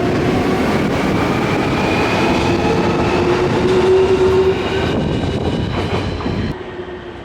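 Nankai electric train running past the platform: wheels rumbling on the rails under a motor whine of several tones that slowly rise in pitch as the train gathers speed. The sound cuts off suddenly about six and a half seconds in.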